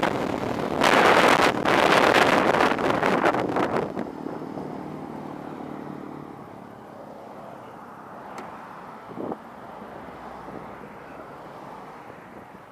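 A vehicle going by with heavy wind noise on the microphone, loud for about four seconds, then fading away to a faint hum.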